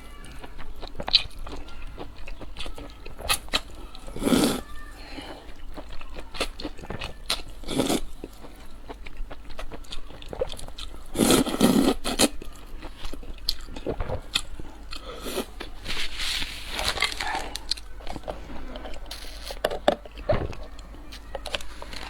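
Close-miked eating sounds: a person biting and chewing crunchy food. There are steady small crunches and clicks, with louder bites about four, eight and eleven seconds in.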